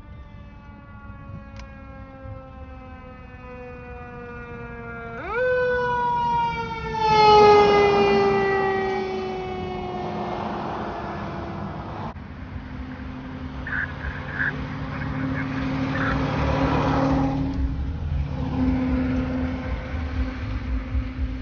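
Fire truck siren wailing down, swept sharply back up about five seconds in, then falling slowly in one long wail. After that the truck's engine rumbles past, growing louder toward the end.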